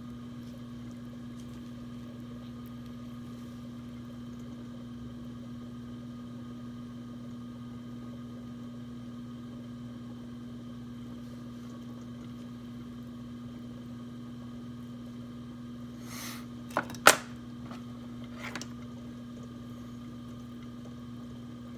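Steady electric hum of a potter's wheel motor running. Near the end come a few sharp knocks, one much louder than the others.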